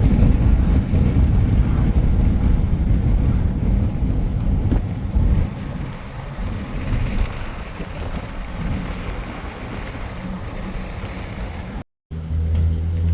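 Wind buffeting the microphone over a low motor rumble, heavier for the first five seconds or so, then easing. After a brief cut near the end, a steady low engine hum.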